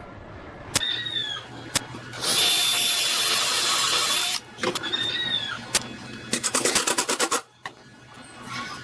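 A handheld power tool, drill-like, running in bursts: a loud steady run of about two seconds, short whines that fall in pitch, and a stretch of rapid pulsing near the end, with sharp clicks in between.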